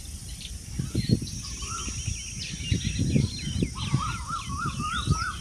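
Several birds chirping and calling, with a quick run of repeated up-and-down notes near the end, over irregular low thumps and rumble.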